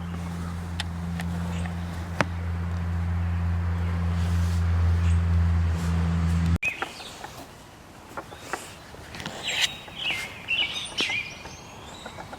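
A loud, steady low hum that stops abruptly about six and a half seconds in. After it, birds chirp in short, stepped calls, with a few light clicks.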